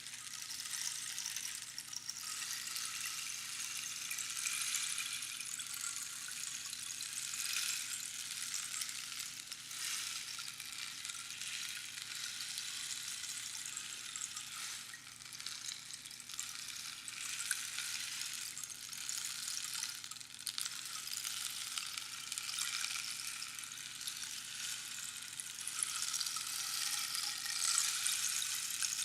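Rainstick being tipped, its pebbles trickling down through the pins inside the hollow tube in a continuous rain-like hiss that swells and eases every few seconds and grows louder near the end.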